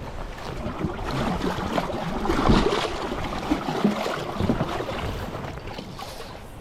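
River water splashing and sloshing around a small inflatable WaterMaster boat, with wind rumbling on the microphone. A louder splash or knock comes about two and a half seconds in, and a few smaller ones follow.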